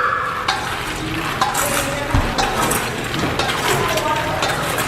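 Kitchen clatter: a steady hiss with clinks of cutlery and dishes, and faint voices in the background.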